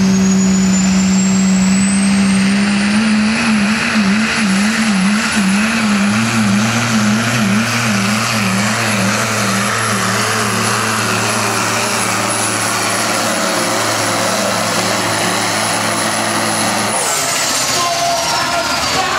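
Diesel pickup truck at full power in a truck pull, its turbo whine climbing to a high steady pitch over a loud engine note that wavers quickly up and down under load. Near the end the engine drops off and the turbo whine winds down.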